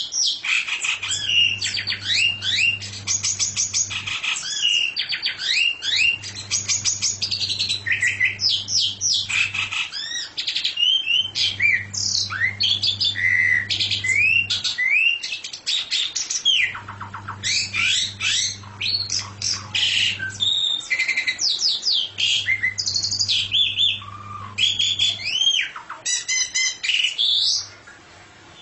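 A songbird singing continuously, a rapid, varied stream of chirps, sweeping whistles and fast trills that stops shortly before the end. A low hum comes and goes in stretches of about three seconds underneath it.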